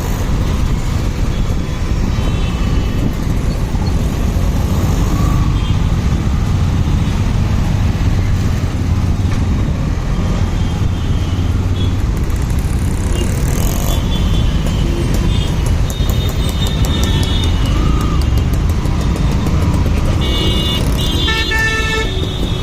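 Steady low road and engine rumble of a motorcycle riding in traffic, with vehicle horns tooting briefly several times and a quick run of toots near the end.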